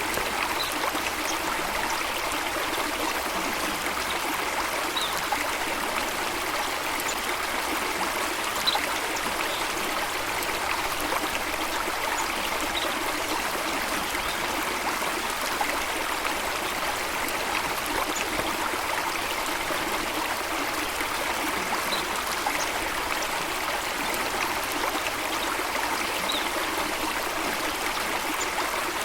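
Running water, a steady rushing and trickling of a stream or small falls, with a faint short high tick every few seconds.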